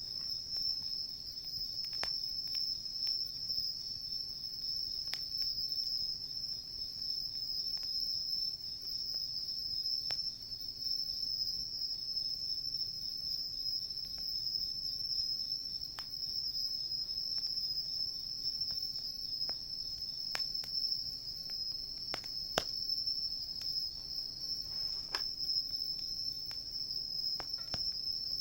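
Crickets singing in a steady, unbroken high trill, with occasional sharp crackles and pops from a wood campfire, the loudest pop about two-thirds of the way through.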